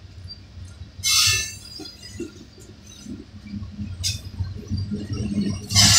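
Coal hopper cars of a freight train rolling past with a steady low rumble, broken by three short, high metallic squeals from the steel wheels: about a second in, about four seconds in, and again near the end.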